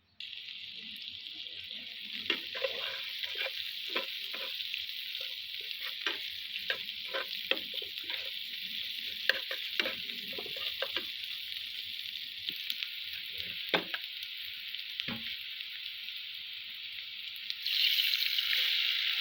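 Food sizzling steadily in hot oil in a pan, with a spatula scraping and knocking against the pan as it is stirred. The sizzling grows louder near the end.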